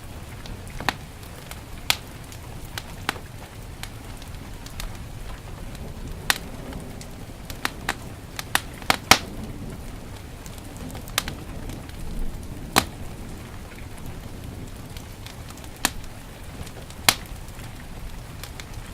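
Wood fire in a fireplace crackling, with sharp irregular pops every second or so, over a steady hiss of heavy rain.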